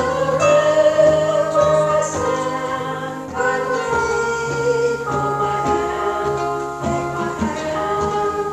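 Choir singing a hymn with instrumental accompaniment, in long held notes.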